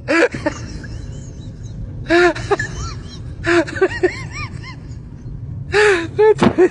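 An animal giving short, high cries that rise and fall in pitch, several at a time in four bunches, over steady background noise.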